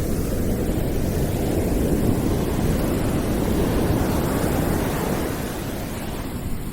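Deep rushing noise, mostly low-pitched and without any tones or clicks, that swells through the middle and eases a little near the end.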